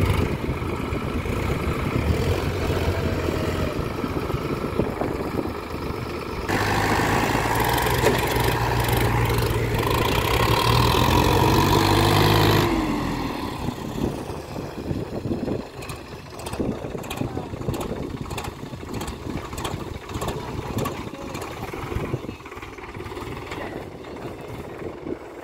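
Sonalika tractor's diesel engine running, working noticeably harder and louder for about six seconds near the middle before falling back to a lower, rougher running sound, as the tractor strains to get out of the river.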